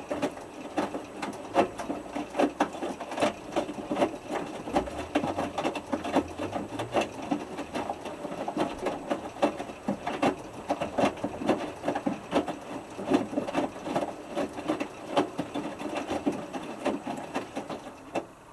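Hotpoint Futura HF8B593 washing machine drum turning in the main wash of a 60 °C whites cycle, with a busy, irregular patter of a small wet load and water slapping inside the drum. The tumble stops near the end.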